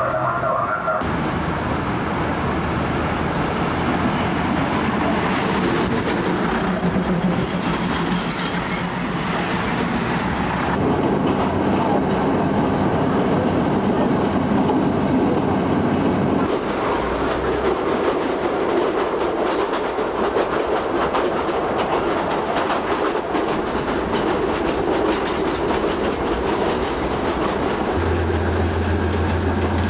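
State Railway of Thailand diesel railcar running on short jointed rails. First comes the rumble of the train from the track, with a high squeal for a few seconds. Then the sound from aboard the moving train: a rapid clickety-clack of wheels over the rail joints under a steady running noise, and a low engine hum near the end.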